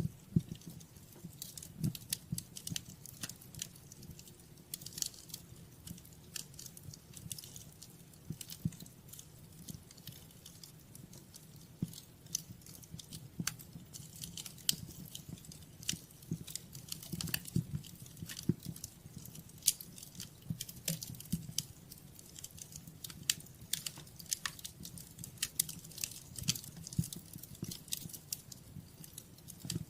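Wood fire in a fireplace crackling and popping: many irregular sharp snaps over a steady low rumble of burning.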